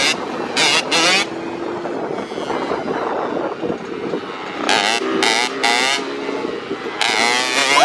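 Two-stroke dirt bike engines running, with short high-pitched revving bursts near the start, about five seconds in and again near the end.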